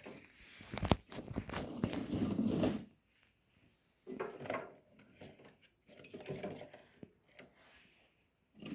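Small household items being handled: clinking and rustling, with a sharp click about a second in.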